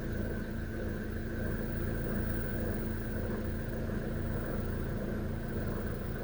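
A vehicle engine running steadily, a constant hum with a low rumble beneath it.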